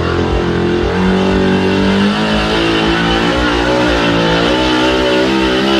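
Pulling truck's engine running hard at high revs, its pitch wavering up and down as it works under load.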